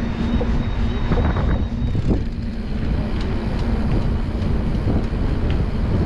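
Wind buffeting a bike-mounted or helmet camera's microphone during a mountain-bike ride, over a steady rumble with scattered knocks and rattles. A faint steady hum runs underneath.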